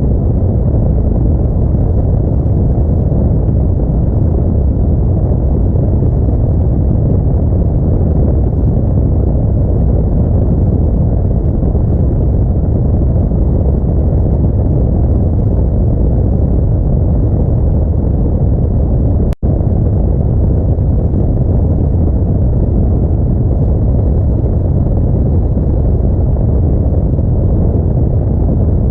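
Steady low rumble of an Audi A4 driving through a snowstorm: road and wind noise. It cuts out for a split second about two-thirds of the way through.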